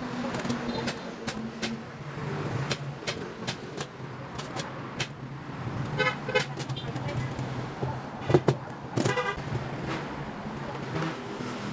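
Road traffic with a vehicle horn tooting briefly about six seconds in and again about nine seconds in, over a steady low hum. Many sharp clicks or taps are scattered throughout.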